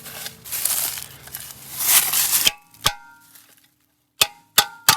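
A loud rushing, scraping hiss that cuts off suddenly about halfway through. It is followed by four sharp metallic clinks, each with a brief ring, the last three close together near the end.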